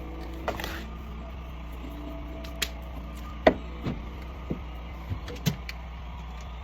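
A series of short, sharp knocks and clicks, about seven, spread irregularly over a steady low hum. The loudest comes about halfway through. They fit household items and containers being handled and set down while a pantry cabinet is being arranged.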